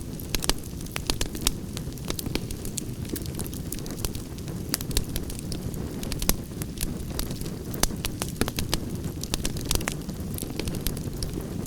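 Campfire burning: a steady low rumble of flames with many sharp, irregular crackles and pops of burning wood.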